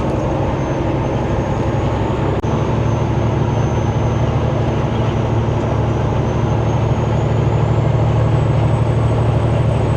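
Semi truck's diesel engine running steadily under way, heard from inside the cab. A click about two and a half seconds in, after which the engine's low note gets stronger, and it grows slightly louder near the end.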